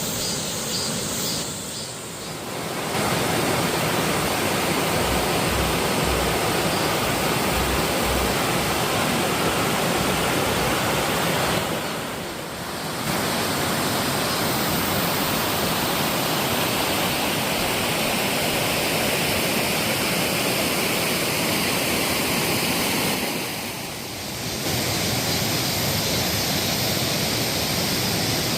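Waterfall: a loud, steady rush of falling water that dips briefly three times.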